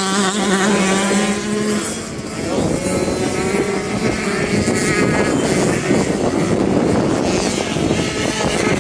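Motocross bike engine at high revs: a steady high note held for about two seconds after a rising rev, then a rougher, fluttering engine sound as it comes off the throttle or passes.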